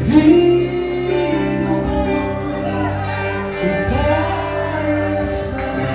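Live worship music from a church band: sustained string-like chords with a voice singing long, sliding notes.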